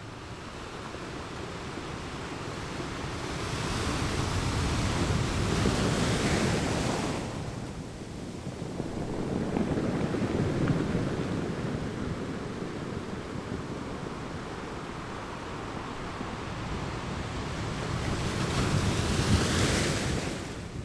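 Ocean surf breaking on a shore: a rush of wave noise that swells and falls, with one wave breaking about five seconds in, a smaller swell near the middle, and another wave crashing near the end.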